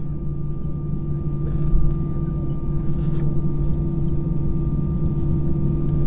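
Airliner cabin noise: the steady drone of the jet engines and air flow, with a constant low hum and a fainter high tone over a deep rumble, and a couple of faint knocks.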